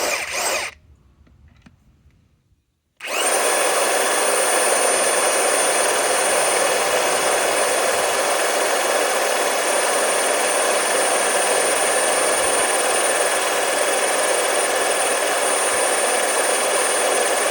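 DeWalt DCF961 high-torque cordless impact wrench hammering steadily for about fifteen seconds as it drives a big lag bolt into solid wood, with a constant high whine over the rattle of the impacts. A brief clatter comes right at the start, before the tool starts up about three seconds in.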